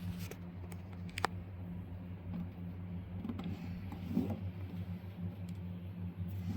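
OKMO 1105B model engine running steadily with a low, slightly pulsing hum, with a sharp click about a second in.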